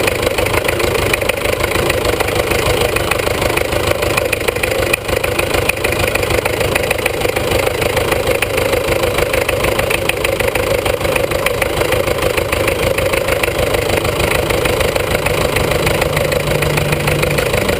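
International B-250 tractor engine running at a steady speed, heard from underneath the tractor. A steady hum joins in for a couple of seconds near the end.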